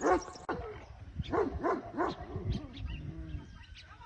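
A dog barking: one bark at the start, then three quick barks about a second and a half in.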